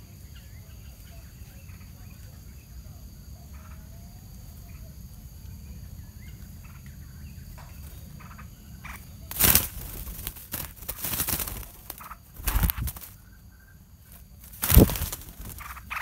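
Faint chirps from bulbul nestlings over a steady low rumble and a high insect whine. From about nine seconds in come several loud rustling crashes, the loudest near the end.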